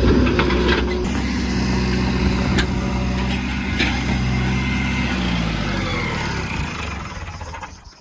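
Heavy diesel engine running, its pitch dropping about five seconds in, then fading out near the end, with a few light knocks.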